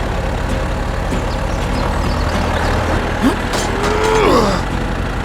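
Steady low engine rumble, like a truck running, with a few short gliding squeals or voice sounds about three to four seconds in.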